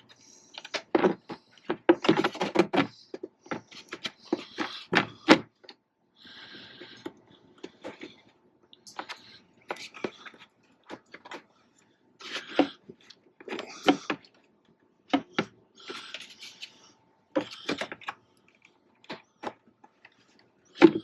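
Irregular knocks, clicks and scrapes of parts being handled and fitted back into a truck's engine bay, with the air box going back down onto its rubber grommets.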